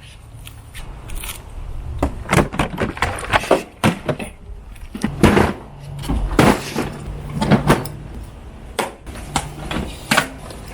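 A run of knocks, thuds and clatters, several a second at times, over a low steady hum.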